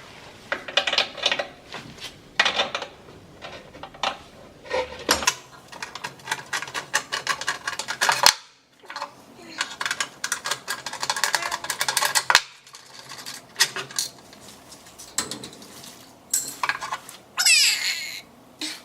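Hard objects being handled and packed: runs of quick clinks, clicks and rattles, with a brief rising scrape near the end.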